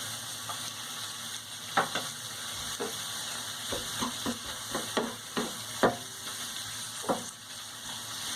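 Shrimp sizzling in hot oil in a frying pan while being stirred, with a utensil clicking and scraping against the pan a dozen or so times at an uneven pace.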